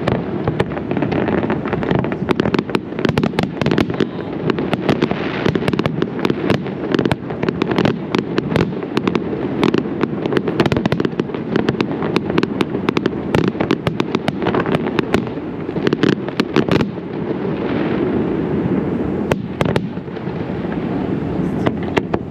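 Zambelli aerial fireworks display going off in rapid, dense volleys of sharp bangs and crackles over a continuous low rumble. The volleys thin out briefly about three quarters of the way through, then a few more sharp bangs follow.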